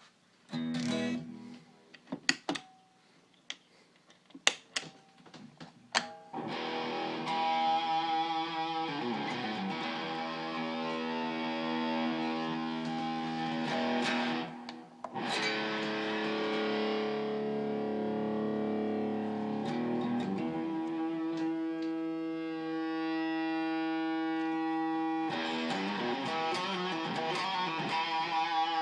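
Electric guitar played through a DIY Madbean Laserwolf pedal (phaser, delay and overdrive in one unit): a few scattered picked notes and string noises, then sustained overdriven chords from about six seconds in, with two brief breaks between them.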